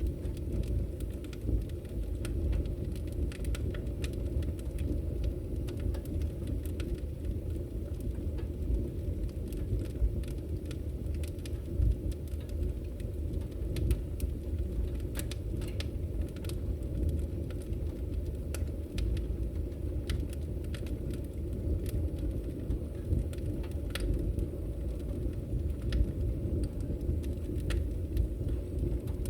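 Wood fire crackling in a fireplace: a steady low rumble of the burning logs with scattered sharp pops and snaps.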